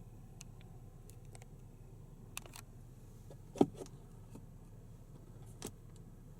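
A few sharp clicks and knocks from a car's fittings being handled, over a steady low hum. The loudest is a single sharp knock about halfway through.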